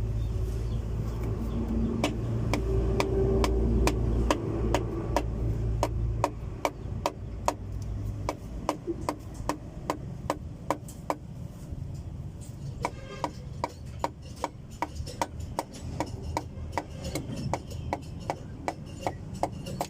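A long run of light, sharp metal taps from a hand tool working on a diesel engine, about two to three a second, with a quicker flurry of clicks partway through. A low rumble underneath fades out in the first half.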